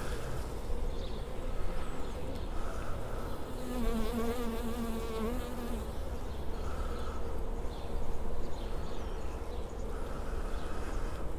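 Honeybees buzzing around an open hive as its frames are inspected, with one bee flying close past for about two seconds around the four-second mark, its buzz wavering in pitch.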